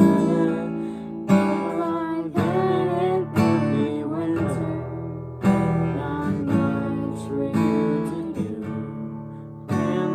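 Acoustic guitar strumming a slow folk accompaniment, with a fresh chord struck about once a second and ringing between strums.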